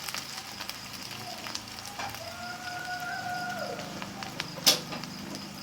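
Crickets chirping in a faint, steady high trill over a low crackle, with one sharp click near the end.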